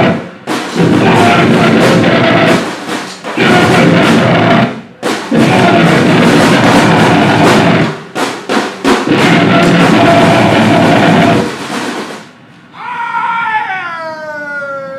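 Live noise-grind improvisation: loud blasts of dense distorted noise and drums in four stretches of one to three seconds, broken by short gaps. Near the end the blasts stop and a pitched tone with overtones slides steadily down in pitch.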